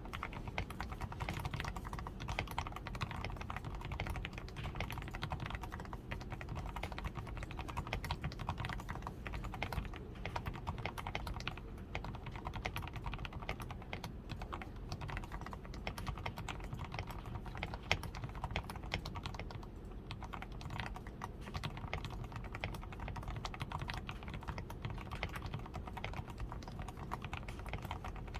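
Steady, continuous typing on a DAREU A87 Pro mechanical keyboard, fully lubed with Krytox 105, with a PCB tape mod, Poron foam around the switches, XDA keycaps and lubed stabilizers. Keystrokes come in a dense unbroken stream, with one louder key strike about two-thirds of the way through.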